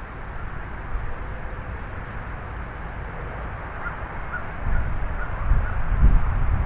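Thunderstorm wind and rain, with gusts buffeting the microphone as a low rumble that grows louder over the last couple of seconds. A few short faint calls come through about four to six seconds in.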